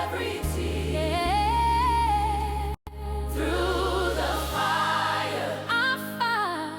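Choir singing a slow melody over held low bass notes, with a sudden split-second cut to silence a little before the middle.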